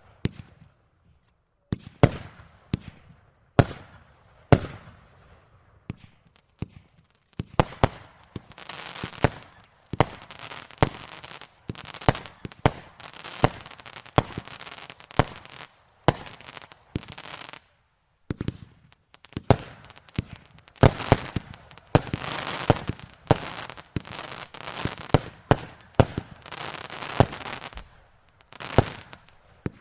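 Fireworks display: many sharp bangs at irregular intervals. Between them come long stretches of dense crackling, one starting about a quarter of the way in and another after the middle, separated by brief quiet gaps.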